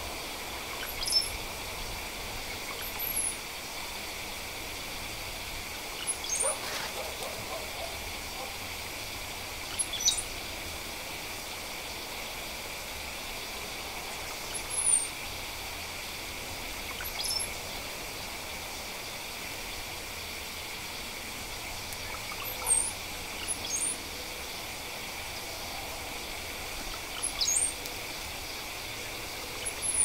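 Brief, very high, thin bird whistles, some sliding down in pitch, one every few seconds, about nine in all, over a steady faint hiss.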